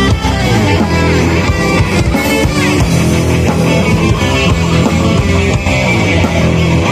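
A metal band playing live with distorted electric guitars, bass and drums, loud and continuous.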